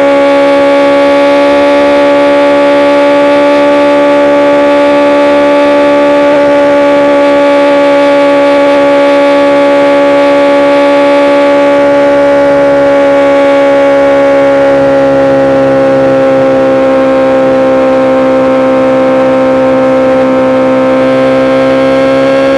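BMW S1000RR's inline-four engine and exhaust held at steady high revs while riding, a constant high engine note. The pitch sags a little past the middle and climbs again near the end.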